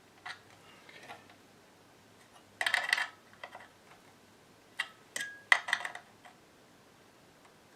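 Small metal parts clinking and rattling in handling: a few sharp clicks, then a dense rattle about two and a half seconds in, and another run of clinks with a brief metallic ring around five seconds in.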